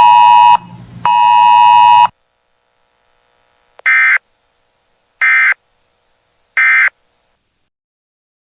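A weather radio sounds a loud buzzing tone in two long beeps that stop about 2 seconds in. Then come three short warbling data bursts about a second apart: the Emergency Alert System end-of-message code that closes the National Weather Service broadcast.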